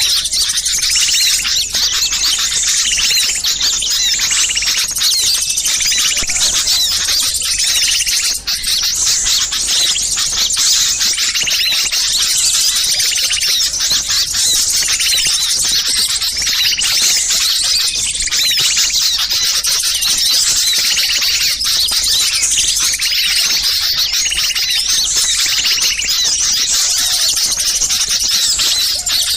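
Mixed chorus of many small songbirds chattering and chirping noisily without a break, made as a bird-lure recording (suara pikat) whose agitated calls are meant to draw wild small birds down. A lower call repeats about every second and a half under the higher chirping.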